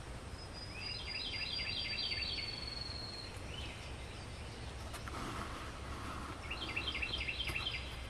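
A songbird singing two phrases, each a quick run of about seven repeated notes, one about a second in and one near the end, with a thin high trill over the first. A steady low background rumble runs underneath.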